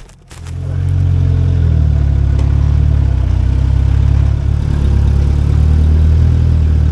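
A heavy farm vehicle's engine running steadily with a deep, even hum. It comes up over the first second and then holds.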